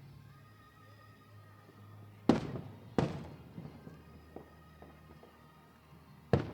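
Aerial firework shells bursting: two loud bangs a little over two seconds in, less than a second apart, and a third near the end, each with an echoing tail, over faint background music.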